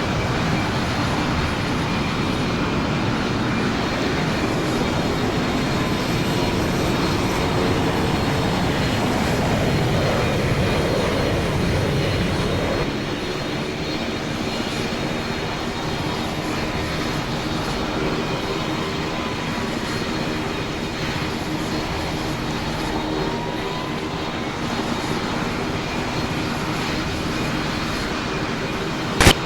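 Aircraft engines running: a steady rushing noise with a few held tones. It drops in level about 13 seconds in, and a sharp click comes just before the end.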